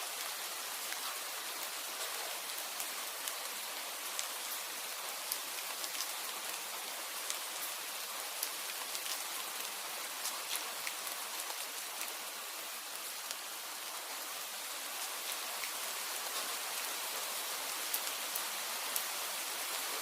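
Steady rain falling, an even hiss scattered with short sharp ticks of individual drops.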